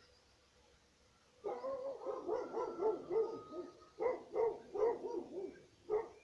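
A rapid series of short, low animal calls, starting about a second and a half in and repeating two to three times a second.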